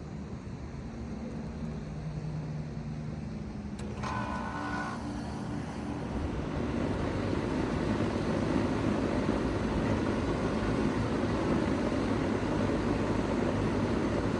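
2018 Bard 2-ton wall-hung heat pump starting up in cooling mode: a sharp click about four seconds in, a brief hum, then the unit's running noise builds steadily as it comes up to speed.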